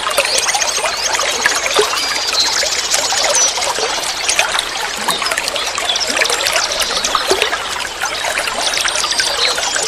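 Flowing water trickling and gurgling steadily, with quick high chirping notes over it a few times.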